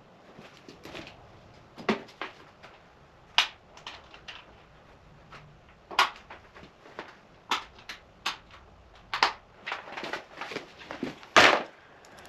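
Irregular clicks, taps and knocks of hand tools, bolts and plastic body panels being handled while the plastics come off a dirt bike, with the loudest knock near the end.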